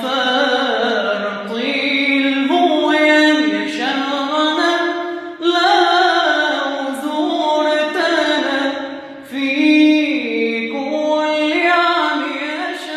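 Unaccompanied male voice chanting a Ramadan farewell (tawdi') in long, drawn-out melismatic phrases, pausing briefly for breath about five and nine seconds in.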